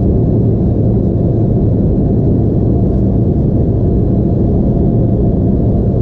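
Steady, deep engine and air noise of an Embraer E175's GE CF34 turbofans, heard inside the passenger cabin.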